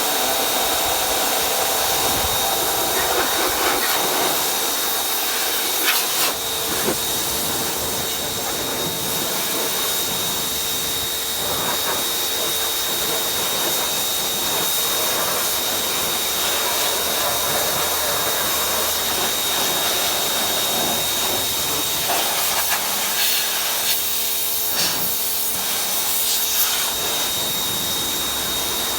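A motor-driven machine running steadily, a loud continuous hiss with a constant high whine, with a few brief knocks about six seconds in and again near the end.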